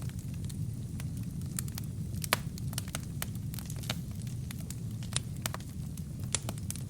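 Wood fire burning in a fireplace: a steady low rumble of flames with sharp, irregular crackles and pops, the loudest pop about two seconds in.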